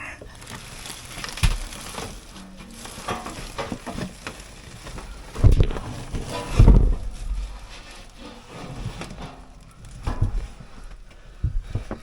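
Blower assembly being worked loose and pulled out of a cramped air handler: scraping, rattling and knocking, with two heavy thumps about halfway through.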